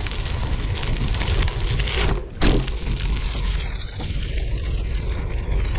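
Wind rushing and buffeting over a GoPro Hero 8 microphone while riding a gravel bike on a trail, a steady low rumble, with one sharp bump about halfway through.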